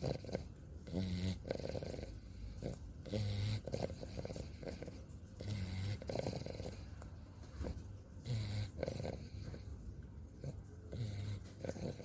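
English bulldog snoring in its sleep: five loud breaths, one every two to three seconds, each a deep rumble with a rattling, buzzing note on top.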